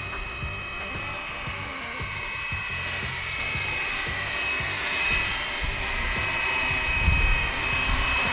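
Fly Wing BO 105 470-class electric RC helicopter in flight: a steady high motor whine over the whir of its rotors, growing somewhat louder toward the end.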